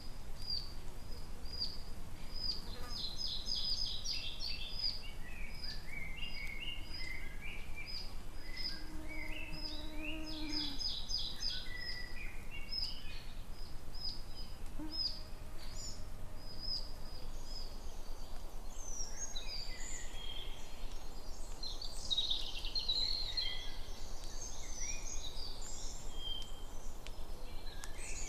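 Several songbirds singing together: a short high note repeated about twice a second, mixed with trills and warbling phrases that grow busier and more varied in the second half, over a steady low rumble of outdoor background noise.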